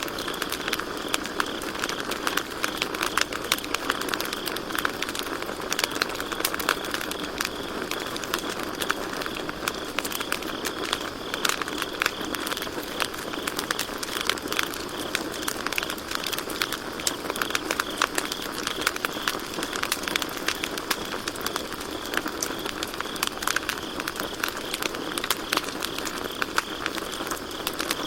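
Campfire burning with frequent small crackles and pops over a steady hiss, and crickets chirping steadily behind it.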